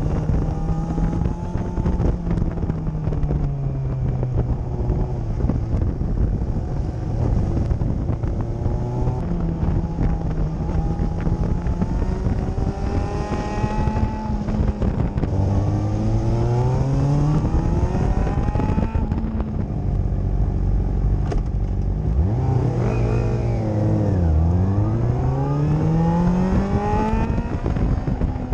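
Honda CBR600RR's inline-four engine run hard on track, its pitch climbing and dropping again and again as the rider accelerates and shifts, over steady wind and road noise. Near the end the revs fall low as the bike slows, then climb again.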